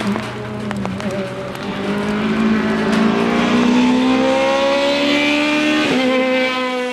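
Rally car engine accelerating hard, its pitch climbing steadily, then dropping on an upshift about six seconds in before pulling again.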